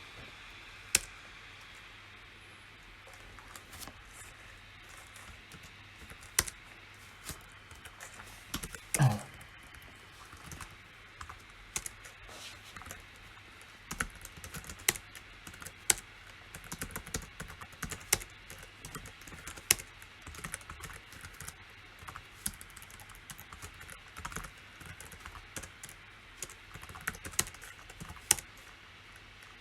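Typing on a PC keyboard: scattered single keystrokes at first, then irregular runs of quick clicks through the second half. About nine seconds in there is one louder knock with a low thud.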